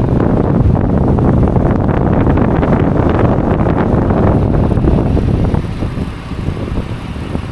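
Strong blizzard wind gusting and buffeting the microphone, a loud low rumble that eases off about six seconds in.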